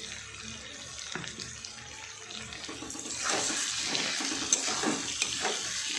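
Oil sizzling in a kadai as washed red lentils (masoor dal) fry with potatoes and spices. About halfway through, a metal spatula starts stirring and scraping the pan in repeated strokes, and the sizzle grows louder.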